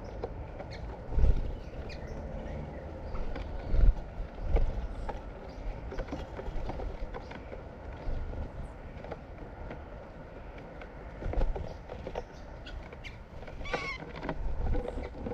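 Several birds chirping, with many short chirps scattered throughout and a louder call near the end. A few dull low thumps stand out about a second in and around four seconds in.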